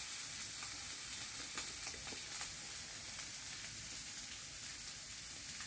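Food frying in a pan, a steady sizzle with a few faint pops.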